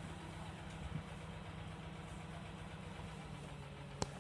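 A machine running with a steady low hum, and one sharp click or knock near the end.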